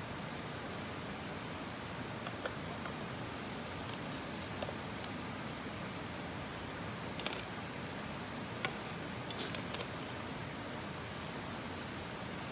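Wood campfire crackling: scattered sharp pops and snaps over a steady hiss.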